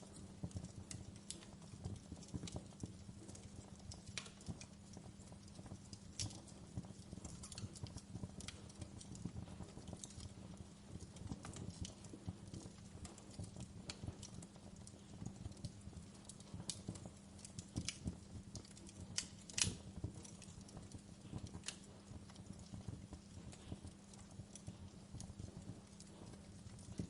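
Wood fire burning with steady, irregular crackling and small pops, now and then a sharper louder snap, the loudest a little past two-thirds of the way through, over a low steady hum.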